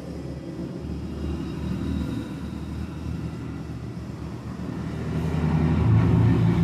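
A motor vehicle engine running, with a low hum that swells louder toward the end as it passes close by.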